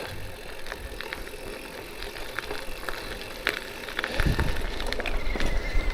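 Electric bike rolling slowly over a rocky, bumpy dirt trail: a steady rumble of tyre and ground noise with frequent small rattles and clicks from the bike, and a heavier knock about four seconds in. A thin, steady high whine comes in near the end.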